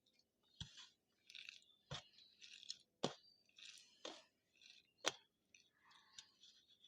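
Faint close-miked chewing and wet mouth sounds of a person eating rice and spiced potato, with five sharp clicks roughly a second apart.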